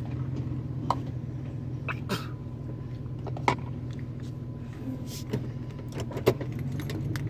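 Pickup truck engine running steadily at idle, a low hum, with a handful of sharp clicks and knocks scattered through, the loudest about six seconds in.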